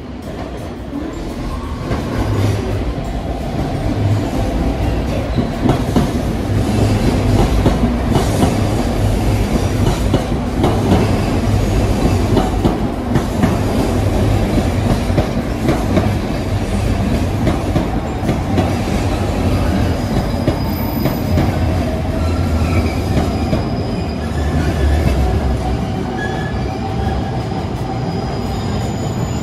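A train running along the rails close by, with steady wheel-and-rail rumble that swells about two seconds in. Brief high wheel squeals come through in the last third.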